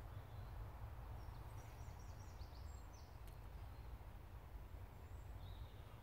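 Faint high songbird chirps and short descending notes, a cluster in the middle and another near the end, over a steady low background rumble of a woodland.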